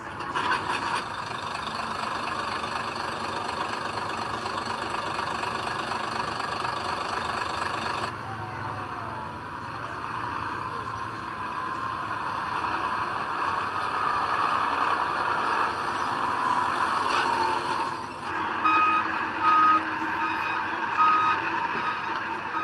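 Diesel earthmoving machinery running steadily. In the last few seconds a backup alarm starts beeping, with several short beeps.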